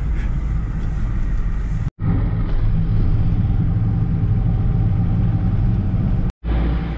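Steady engine drone and road noise from inside a vehicle's cab while driving, mostly a low rumble. The sound drops out to silence for an instant twice.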